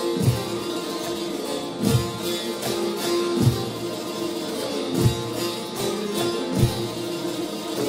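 Turkish folk music ensemble playing an instrumental passage, with plucked saz strings and a held note over a low drum beat about every second and a half.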